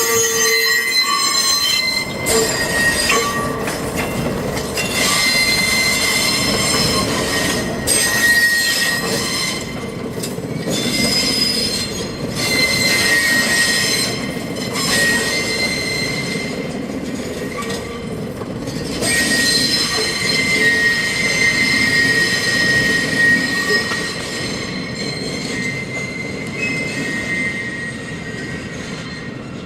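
Steel wheels of R28 'Redbird' subway cars squealing against the rail flanges on a sharp curve. Several high, shifting squeal tones ring over the rumble of the moving cars, and the sound fades near the end.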